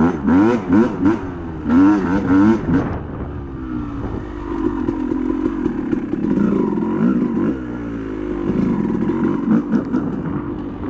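Yamaha YZ250's 250 cc single-cylinder two-stroke engine being ridden, its revs rising and falling sharply several times in the first three seconds as the throttle is worked, then settling to a steadier, lower note with a few smaller rises.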